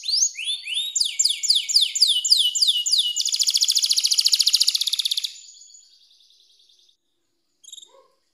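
Domestic canary singing: rows of repeated high whistled notes, each sweeping downward, about five a second, then a fast buzzing trill that fades out about five seconds in. A brief short chirp comes near the end.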